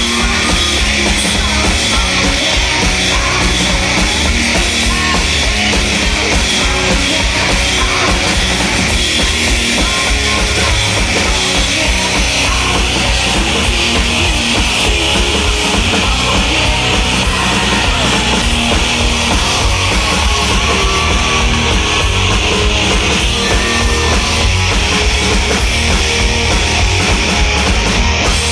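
Live rock band playing loud and steady: distorted electric guitars over a fast, driving drum kit, heard as the festival PA carries it to the crowd.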